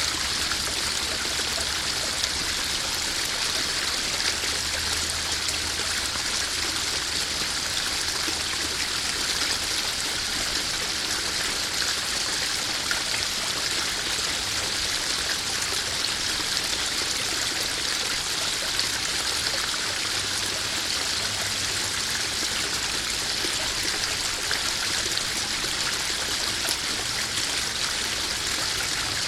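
Small garden waterfall splashing steadily into a koi pond, an even rush of running water with some trickling.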